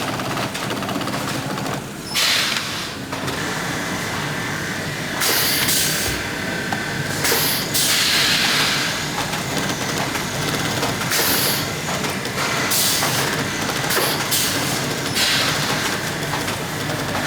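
Boot-workshop machinery running with a steady hum, broken by short bursts of hissing or grinding noise about every two to three seconds.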